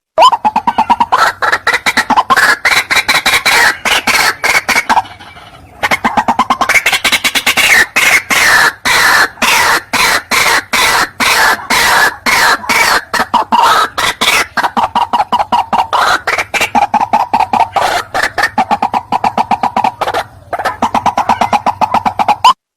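White-breasted waterhen (ruak-ruak) calls: a rapid, harsh run of repeated notes, several a second, with a short break about five seconds in and another near the end. This is the call used as a lure to draw waterhens in.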